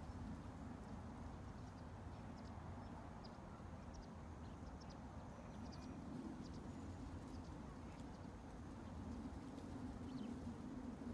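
Faint, steady low ambient rumble, with scattered tiny high chirps or ticks over it.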